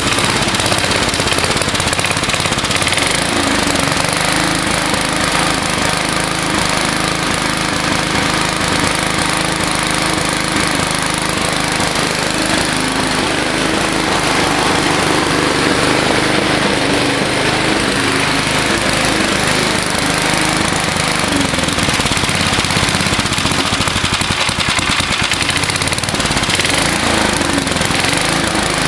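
Old 3.5 hp Briggs & Stratton single-cylinder engine on a lawnmower running steadily at speed, its pitch wavering slightly. The owner believes its carburettor needs work.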